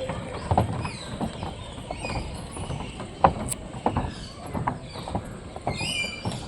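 Irregular knocks and thumps, one louder a little after three seconds, with a few short high bird calls, the clearest near the end.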